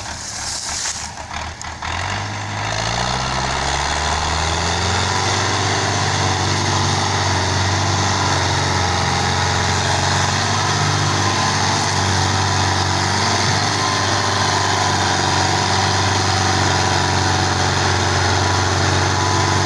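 Belarus 510 tractor's diesel engine revving up about two seconds in, its pitch climbing for a few seconds, then running at high, steady revs.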